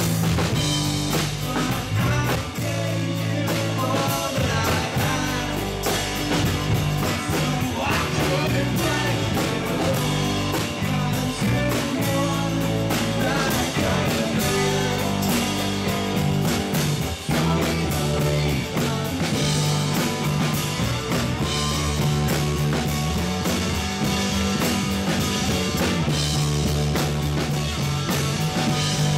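Rock band playing live, electric guitars and drums driving steadily, with singing in places.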